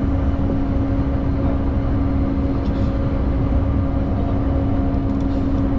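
Electric commuter train running at a steady speed, heard from inside the carriage: a loud, even rumble with a constant hum.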